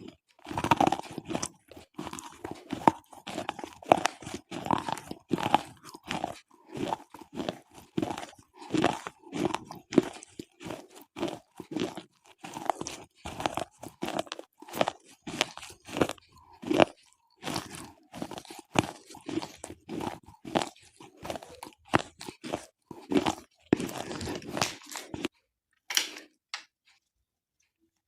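Slate pencils being bitten and chewed close to the microphone: rapid, irregular crunches. The crunching stops near the end, with one last crunch just after.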